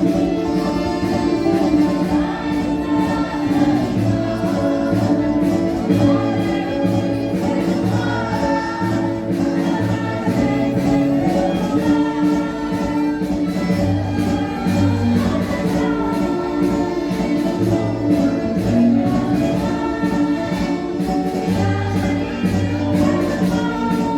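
Group of voices singing a Portuguese marcha popular in chorus over a steady instrumental accompaniment with a pulsing bass.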